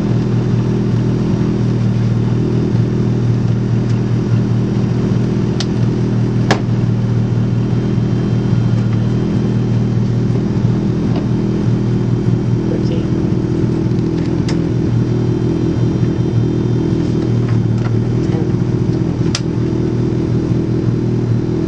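Ford Focus rally car's engine idling steadily while the car stands still, heard from inside the cabin, with a few sharp clicks now and then.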